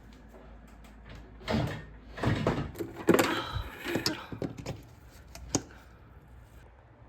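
Household handling sounds in a small room: a run of knocks and clatters lasting about three seconds, then a single sharp click.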